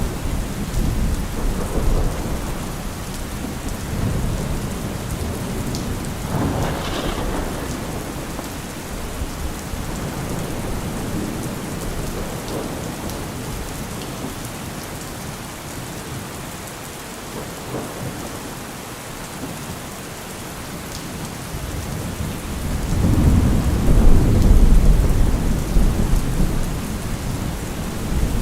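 Steady rain with rolling thunder. The low rumbles rise and fall, and a long, loud roll swells up about twenty-three seconds in.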